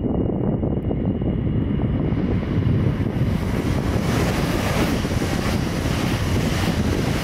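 Deutsche Bahn ICE high-speed electric train approaching and passing underneath at speed: a rush of wheel and air noise that builds from about two seconds in and peaks around five seconds. Steady wind buffets the microphone throughout.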